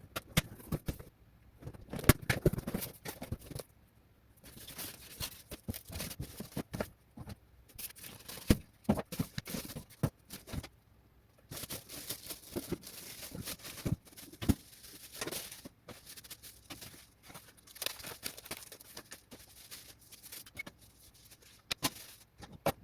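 Toaster oven being unpacked from its cardboard box: irregular rustling and scraping of the packing material, with sharp knocks and clicks scattered throughout.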